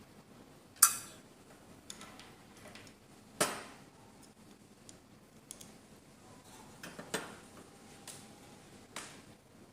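Hard parts clinking and knocking: two sharp clinks with a short ring, one about a second in and one past the three-second mark, and a few lighter taps and clicks in between.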